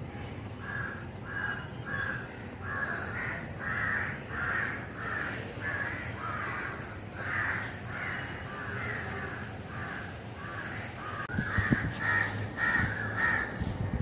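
A bird calling over and over in rough, harsh calls, about two a second, with a few low knocks near the end.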